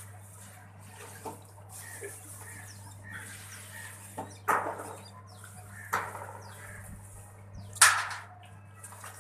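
Birds coughing: three sharp, loud coughs, the first about halfway in, the next a second and a half later and the last near the end, among soft short chirps, over a steady electrical hum.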